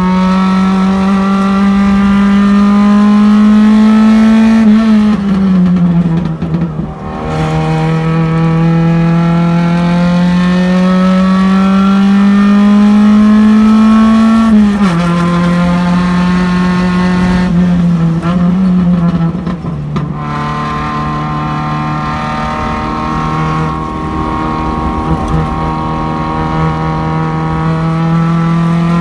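Race car engine heard from inside the car at speed on track. The revs climb steadily in two long pulls, each ending in a sharp drop about 5 and 15 seconds in, then a few quick rev blips around 18 to 20 seconds in. After that the engine holds a steadier, slowly rising pitch.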